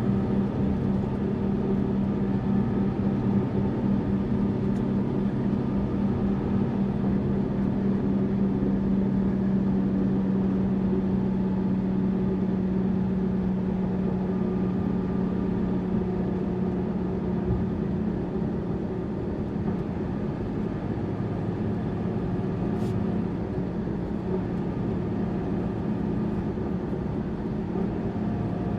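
Tourist bus engine running at a steady low hum, with road noise beneath it. The level eases slightly about two-thirds of the way through.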